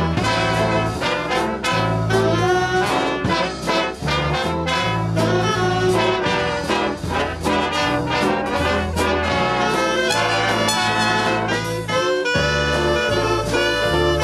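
Swing band playing an instrumental passage, with brass and saxophone over a moving bass line and a steady beat.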